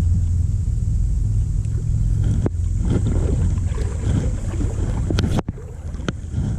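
Steady low rumble of wind buffeting the microphone outdoors on the river. A few sharp knocks or clicks come about two and a half and five and a half seconds in.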